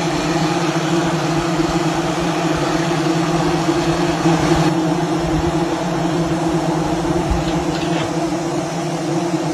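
Honeybees buzzing in a dense mass close by: a loud, steady drone with a low hum.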